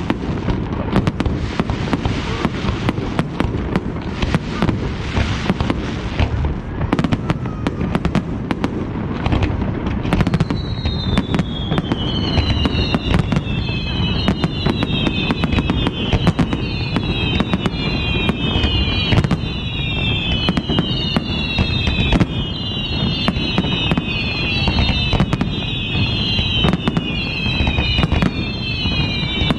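Fireworks display: a dense, steady run of bangs and crackles over a low rumble. From about a third of the way in, many whistles falling in pitch sound over and over on top.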